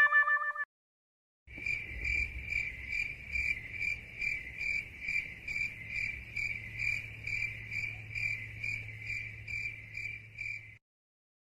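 Crickets chirping sound effect, the familiar 'crickets' meme sound for an awkward silence: a high chirp repeating about twice a second over a low hum, starting about a second and a half in and cutting off suddenly near the end. It is preceded by the brief tail of a held musical note.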